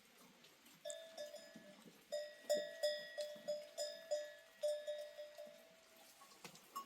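Livestock neck bells on goats or sheep clanking irregularly as the animals move, several strikes a second. The clanking starts about a second in, is loudest in the middle and fades out near the end.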